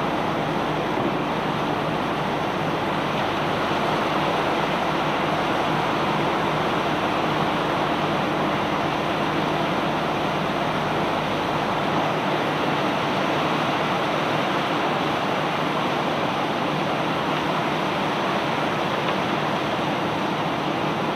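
Steady rushing roar of a barge unloading cobblestones, with a low engine hum underneath; the deepest rumble drops away about halfway through.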